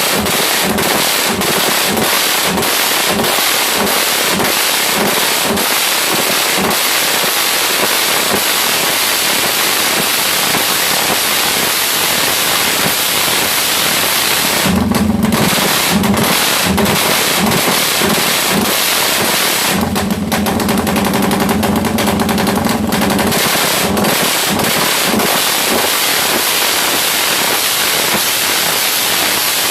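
Suzuki Satria FU single-cylinder four-stroke engine, bored up with an 87 mm piston, revving loudly through an open drag exhaust in a fast pulsing beat of repeated throttle blips, the sound the uploader likens to a helicopter. The revs are held briefly about halfway through and for about three seconds a little later.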